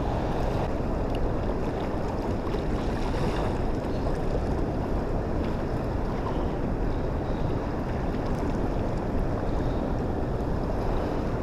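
Steady rushing noise of wind buffeting the microphone over the sound of water, holding even throughout with no distinct events.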